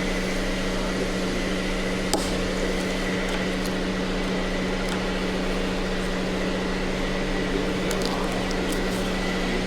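Steady electrical or mechanical hum of shop equipment with a constant low tone, and a few faint metallic clicks from hand-tool work on the axle joint about two seconds in and again near the end.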